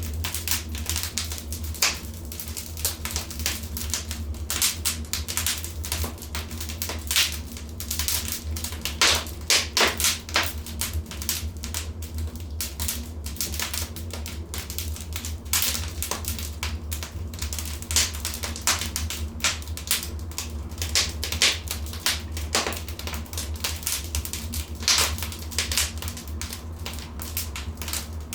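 Wood fire in a fireplace crackling, with irregular sharp snaps and pops over a steady low rumble.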